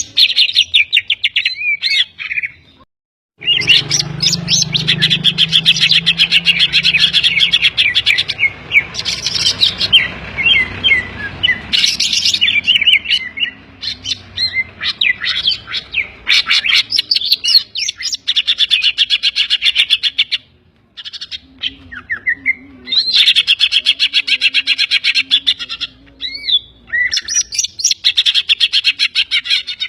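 Cucak ijo (green leafbird) singing hard in long runs of rapid chattering and whistled notes, laced with mimicked calls of other birds such as the kapas tembak and the kingfisher. It breaks off briefly twice.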